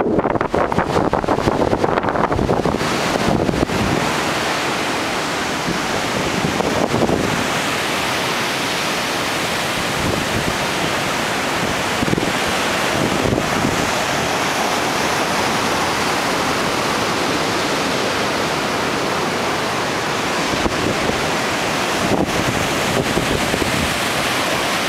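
Tropical-storm wind buffeting the microphone over heavy ocean surf, gusting hard for the first few seconds, then a steadier rush of wind and waves.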